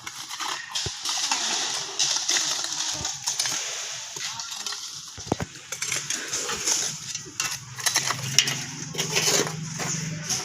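Stones and gravel clinking and scraping in many small knocks, with a low engine hum joining in near the end.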